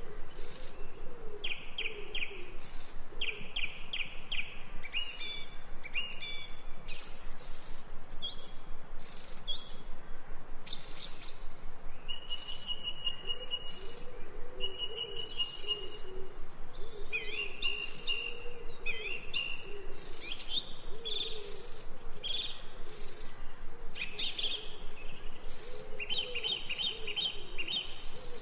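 Ambient recording of songbirds chirping: many short chirps and quick trills from several birds, with a lower warbling call underneath and a faint steady hiss.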